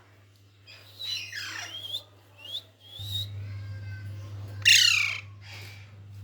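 Pet parrot squawking: several shrill calls, some sliding down in pitch, the loudest and longest one about three-quarters of the way through. A low steady hum comes in about halfway.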